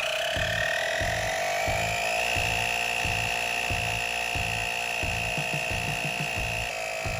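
Battery-powered portable tire inflator running as it pumps up a dirt bike tire: a steady motor whine that rises a little in pitch during the first couple of seconds, then holds. Background music with a steady beat plays underneath.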